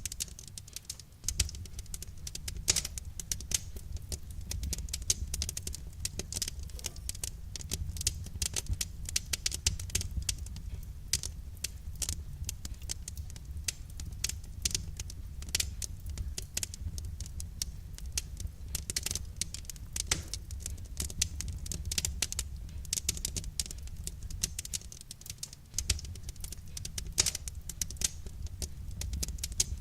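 Wood fire crackling: dense, irregular snaps and pops over a steady low rumble of the burning fire.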